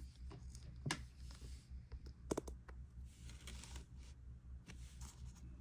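Faint handling of a crochet hook and yarn: soft rustles with two light clicks, one about a second in and one about two and a half seconds in, over a low steady hum.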